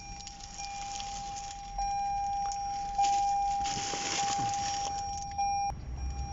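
A steady high electronic tone sounds, holding one pitch with brief dips and cutting off near the end. A stretch of rustling handling noise sits in the middle.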